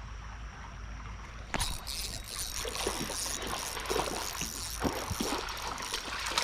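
Creek water running and splashing, with many small sharp splashes picking up about a second and a half in.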